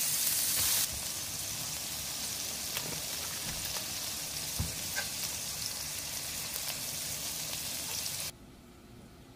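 Hamburger patties sizzling in hot grease: a steady hiss with a few small pops. The sizzle steps down slightly about a second in and drops away to a faint hiss near the end.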